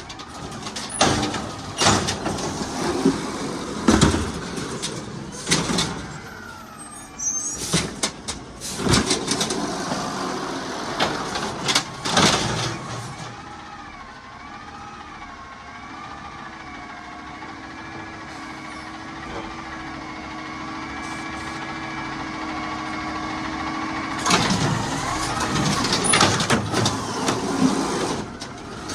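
Garbage truck at work: a run of loud metal clanks and bangs, then a whine from its hydraulics that wavers briefly and then holds steady for about ten seconds, then more clanking near the end.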